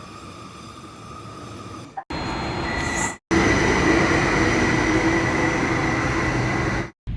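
Passenger train running, its rumble and rolling noise in three short spliced clips with abrupt cuts between them. The third and loudest clip carries a steady high tone over the rumble.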